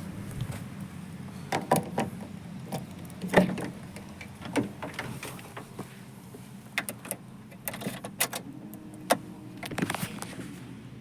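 A Maruti Suzuki Eeco van's engine idling as a steady low hum, with a string of sharp clicks and knocks from panels or latches being handled, about a dozen spread through it.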